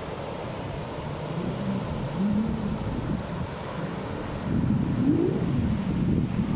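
A motor engine running with a wavering pitch that rises about five seconds in, getting louder in the second half, with wind rumbling on the microphone.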